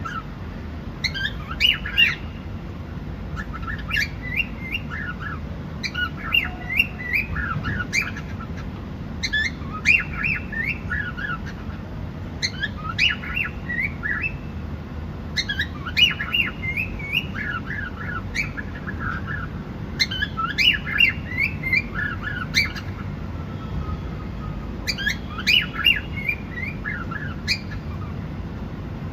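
Cockatiel chirping and whistling in short repeated phrases every few seconds, over a steady low rumble.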